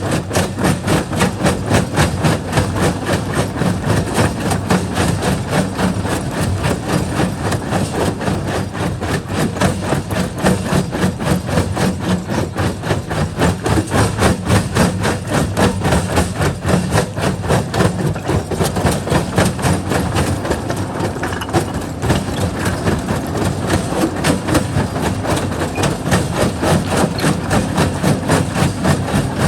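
Quarry jaw crusher breaking rock: a rapid, even run of knocks and clatter over a steady machine drone.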